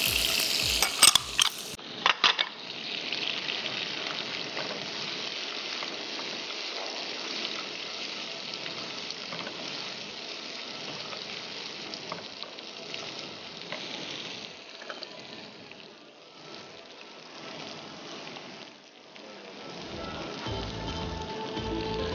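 Sliced dried dates and nuts (cashews, almonds, pistachios) sizzling as they fry in ghee in a nonstick wok, stirred with a spatula. A few sharp clicks of the spatula against the pan come in the first two seconds, and the sizzle eases off somewhat in the last few seconds.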